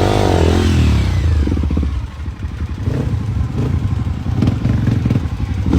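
Enduro dirt bike engine revving up and falling back near the start, then running on with short, uneven blips of throttle.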